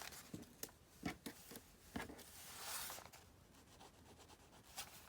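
Faint paper handling: a few light taps and clicks, then a brief rubbing of paper as paper tabs are pressed onto the edges of journal pages.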